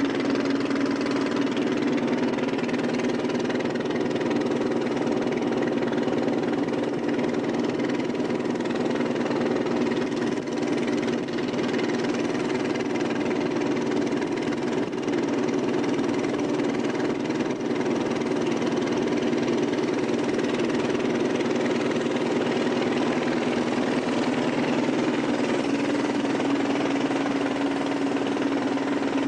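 Boat taxi's engine running steadily while under way: a constant drone over a hiss of rushing water and wind.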